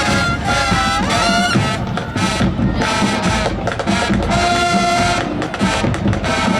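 High school marching band playing: the brass section holds loud chords and short phrases over a steady drum beat.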